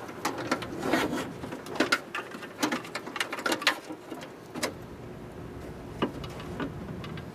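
Irregular light clicks and knocks of hand work on a car power-window regulator, its cable and rails being handled. The clicks come thick and fast for the first few seconds and only now and then near the end.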